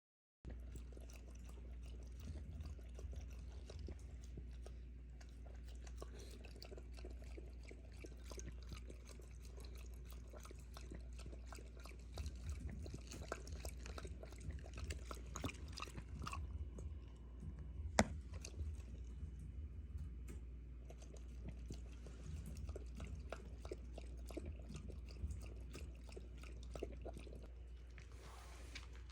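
Shiba Inu chewing and gnawing, a long run of small irregular clicks and crunches, with one sharper click about 18 seconds in, over a low steady hum.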